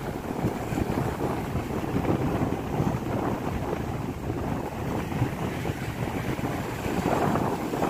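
Wind buffeting the microphone at the seashore, a steady uneven rumble with no clear tone.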